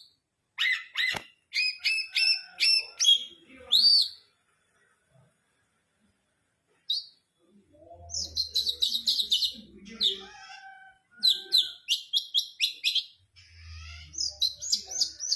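Long-tailed shrike singing in rapid runs of repeated high chirping notes, mimicking other birds' phrases. The song breaks off for about three seconds midway.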